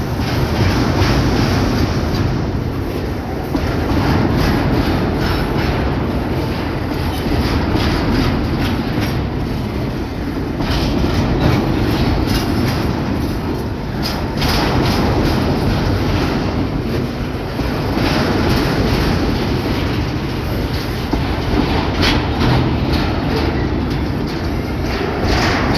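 Freight train wagons rolling past over a railway bridge. The wheels clack over the rail joints again and again, with a steady rumble that swells and dips every few seconds.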